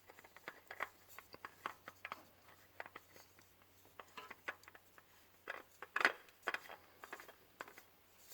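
Faint, irregular clicks, taps and light scrapes of a new spin-on oil filter being threaded onto its mount by hand, with a few louder knocks about six seconds in.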